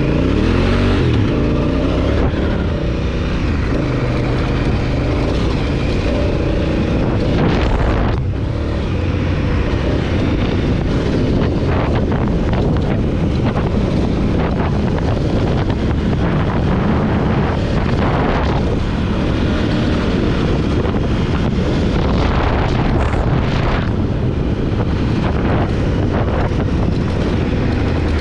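Honda Africa Twin CRF1000L's parallel-twin engine running under way, with heavy wind noise on the microphone. The engine note rises just at the start.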